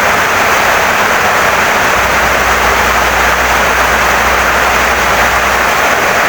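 Heavy rain pouring steadily on a wooden house. A low steady rumble runs underneath from about two seconds in until shortly before the end.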